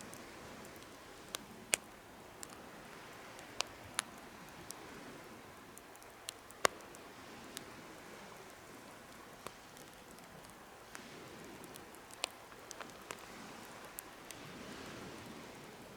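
Wood campfire crackling: irregular sharp pops, a few of them loud, over a soft steady hiss of burning.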